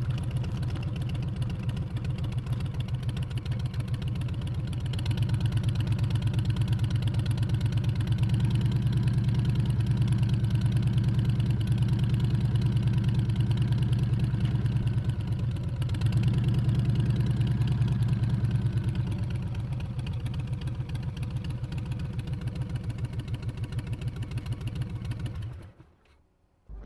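Harley-Davidson Street Bob's Milwaukee-Eight 114 V-twin running under way, with a rapid pulsing beat. It gets louder about five seconds in, holds steady, eases off after about nineteen seconds and cuts away to near silence just before the end.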